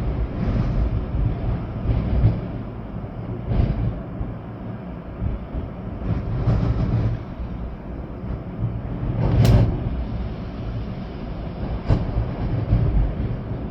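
Storm-force wind gusting, with a deep rumble as it buffets the microphone, over a steady hiss of rain. A sharper, louder gust hits about two-thirds of the way through.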